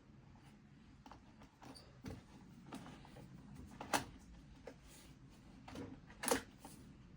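Light clicks and knocks of chainsaw parts being handled during reassembly, with two sharper knocks about four and six seconds in.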